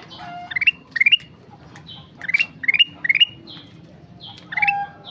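Kutilang emas, a bulbul, singing busily: short bright phrases of a few quick rising notes, repeated every second or so, mixed with harsh buzzy notes.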